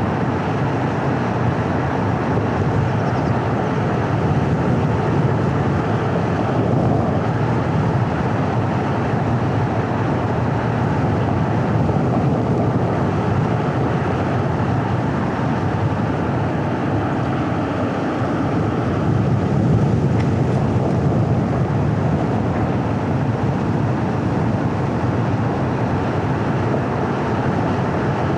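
Car driving on a paved road: steady low road and engine noise that rises a little about two-thirds of the way through.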